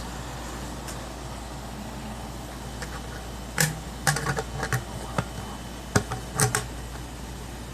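Plastic humidifier parts clicking and knocking against each other as they are handled and tried for fit, a scattered run of short sharp clicks starting about three and a half seconds in, over a steady low hum.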